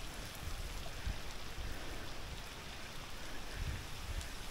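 Steady rain falling on wet pavement and river water, heard through a waterproof action camera's housing, with a few low thumps.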